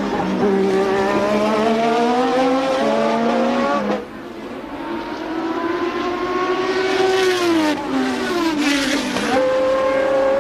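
A 1988 Formula One race car's engine at full racing revs. It climbs in pitch, dips briefly about four seconds in, then climbs again. Near the end its pitch falls in steps over a couple of seconds, typical of braking and downshifting for a corner, before it picks up and holds a steady note.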